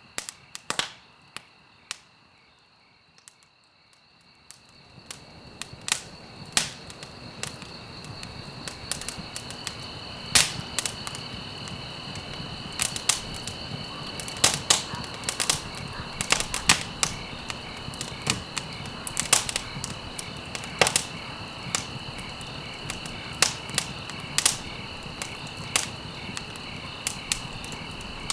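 Wood fire crackling in a fireplace: sharp, irregular pops and snaps over a hiss of burning that is nearly absent for the first few seconds, then swells up about five seconds in. A faint steady high tone runs underneath.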